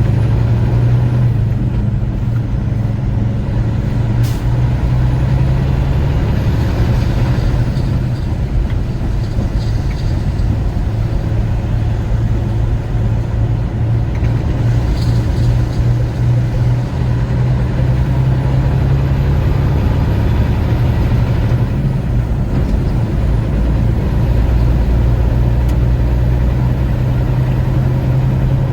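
Truck engine and road noise droning steadily while driving, a low, even hum heard from inside the cab.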